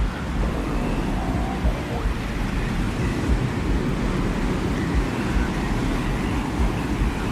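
Steady, rumbling desert wind ambience, a continuous low roar with a hiss of blown sand, with faint whistling tones now and then.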